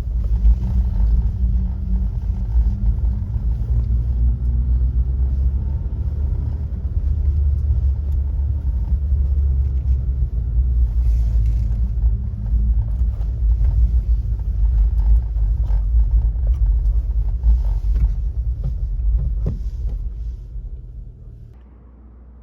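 Subaru Sambar van's rear-mounted four-cylinder engine running with a steady low rumble, its pitch rising a little a few seconds in. The rumble fades toward the end and drops away about a second before the end.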